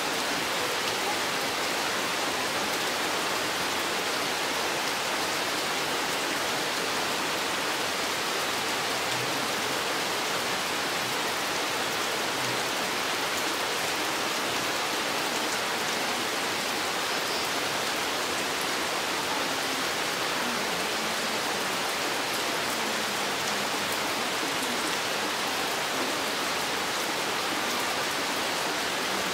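Steady rain falling in a forest: an even hiss of many drops, unchanging throughout.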